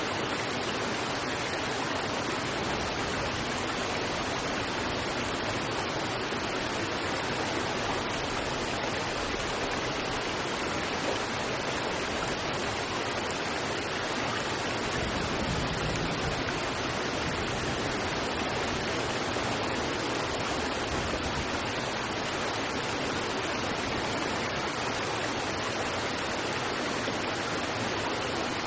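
River water rushing over rocks, a steady, unbroken hiss with no change in level.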